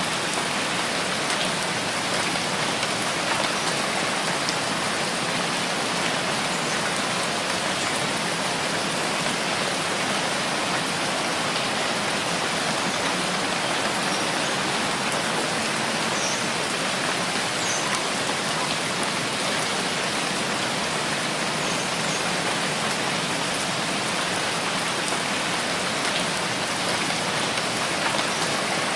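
Steady rainfall, an even hiss of rain falling on surfaces.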